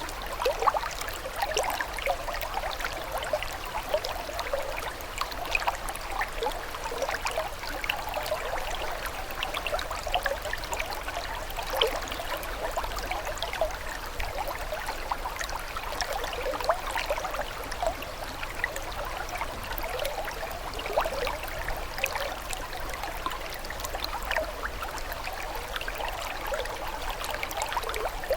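Running water trickling steadily, with many small bubbly plinks over an even rush.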